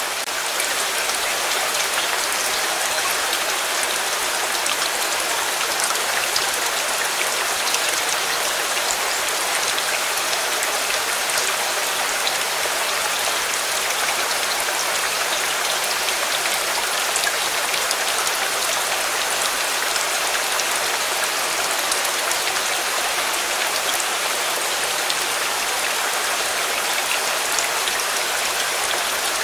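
Steady rain falling on a surface: a dense, even patter of drops that never lets up.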